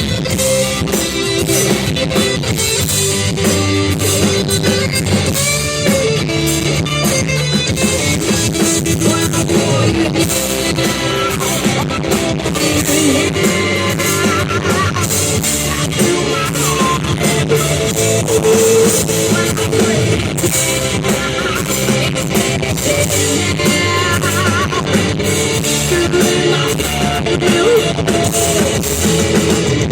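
Live rock band playing loudly: guitar over a drum kit, with no clear singing.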